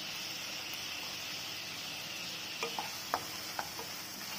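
Onion, capsicum and chilli paste sizzling in oil in a nonstick kadai, a steady hiss. From a little past halfway, a wooden spatula stirring them gives a few light taps against the pan.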